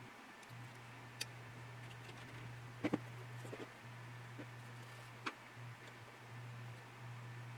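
A few sharp light clicks and taps from small plastic model-kit parts and tools being handled on the bench, one of them a quick double click, over a steady low electrical hum.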